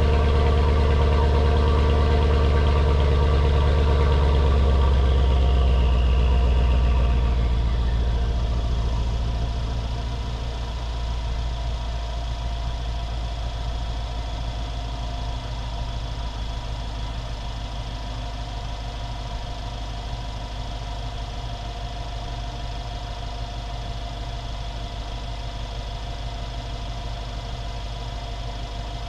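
2015 Mercedes-Benz S550's twin-turbo V8 with its exhaust resonator deleted, idling after a cold start. About seven seconds in, the fast idle drops and the exhaust settles to a lower, quieter, steady idle.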